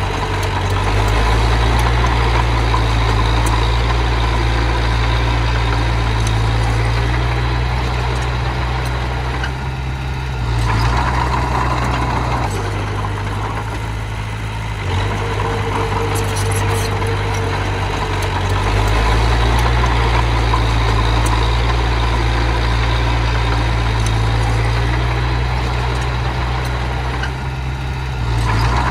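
A small bulldozer's engine running under changing load. Its low note drops back and picks up again several times, with faint clanks over it.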